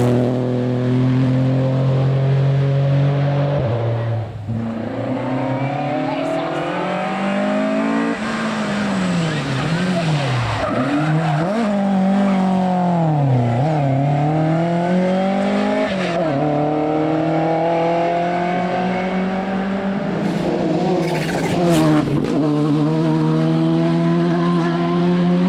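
Rally car engine being driven hard on a stage. Its pitch climbs through gear changes, dips and rises several times in the middle as the throttle is lifted and reapplied, and holds steady near the end.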